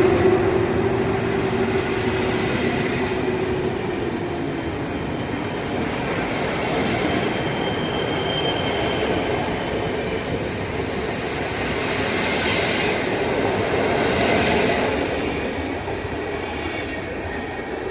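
Freight train rolling past: a continuous rumble of wagons on the rails, with a brief wheel squeal about eight seconds in.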